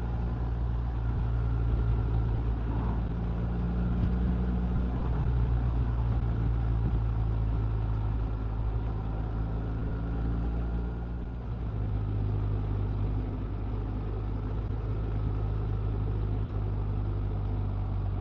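Honda Gold Wing touring motorcycle engine running steadily under way, with road and wind noise; about two-thirds of the way through the engine note dips briefly and settles at a new steady pitch.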